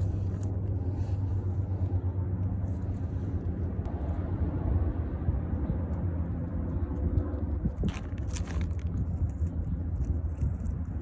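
Steady low rumble of road traffic, with a brief high rustle about eight seconds in.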